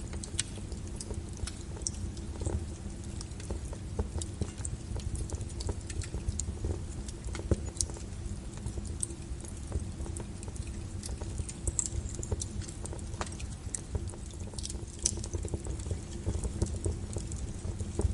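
Burning logs in a fireplace crackling: irregular sharp pops and snaps over a steady low rumble of the flames.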